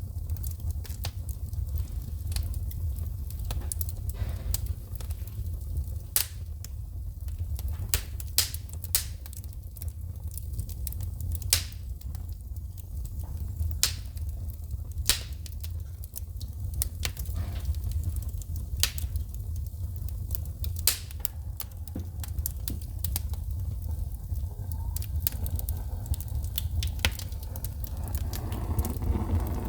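Wood fire burning in a fireplace with a steady low rumble of flame and sharp, irregular crackles and pops as sparks shoot from the burning wood, denser near the end.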